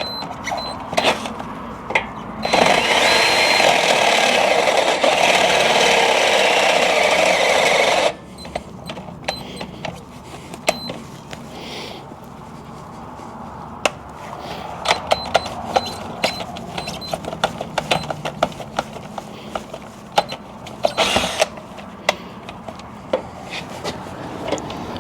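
Power drill running steadily for about five seconds, then a long string of sharp clicks and knocks from tools being handled, with another short burst of the drill about 21 seconds in.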